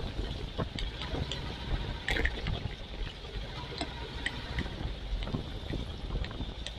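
Riding a Royal Enfield Classic 350 in heavy rain: a steady wash of wind and water noise over a low engine rumble, with frequent sharp clicks of raindrops striking the action camera's microphone.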